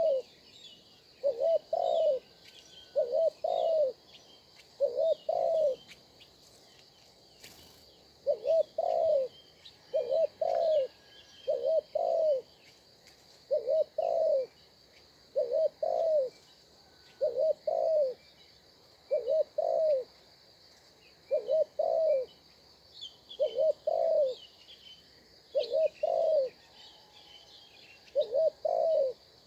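A bird repeating a low two-note call about every two seconds, with one longer pause. A steady high insect buzz runs underneath, with faint chirps of small birds.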